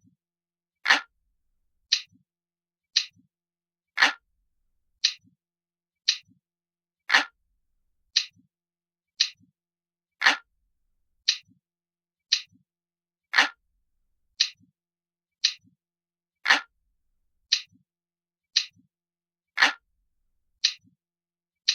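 Looped analog clock ticking sound effect, about one tick a second; every third tick is louder and fuller.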